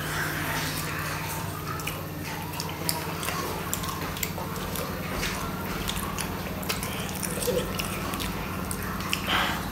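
Close-up eating sounds of steamed momos and instant noodles being bitten and chewed: many short wet mouth clicks and smacks over a steady low hum.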